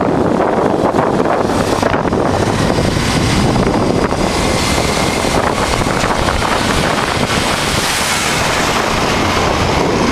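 Steady wind rush buffeting the microphone over the running engine of a 1988 Honda Transalp, a V-twin motorcycle, at riding speed.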